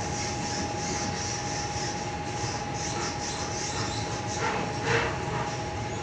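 A Sydney Tangara electric train heard from inside its vestibule while running between stations: a steady rumble with a constant high whine, and two louder knocks about four and a half and five seconds in.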